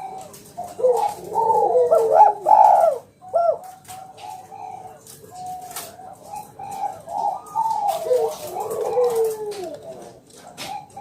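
Spotted doves (tekukur) cooing loudly in repeated phrases, some overlapping, loudest about two to three seconds in, with faint clicks throughout.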